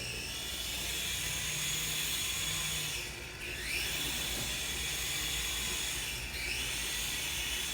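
Small toy drone's electric motors and propellers whining steadily with an airy hiss. The pitch dips and climbs back about three seconds in and again near six seconds as the throttle changes.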